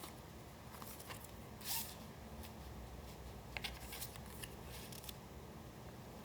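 Pieces of collage paper being handled and arranged: a short crisp rustle a little under two seconds in, then a cluster of light scrapes and taps a couple of seconds later.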